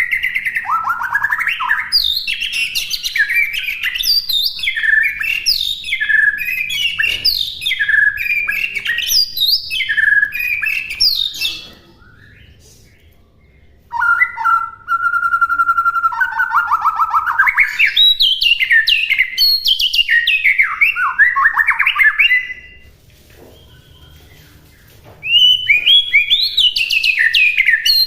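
White-rumped shama singing a long, varied song of rapid whistled and sweeping phrases, with two short pauses of about two seconds.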